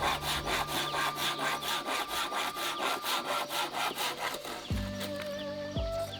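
Wood being hand-sawn with quick, even back-and-forth strokes that stop about four and a half seconds in.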